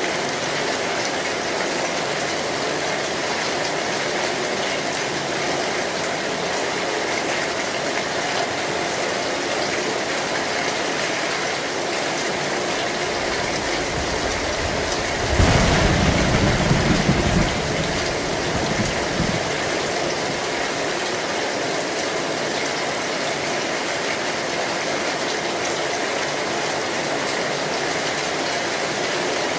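Heavy rain falling steadily on a metal roof, with one low thunder rumble about halfway through that lasts about two seconds.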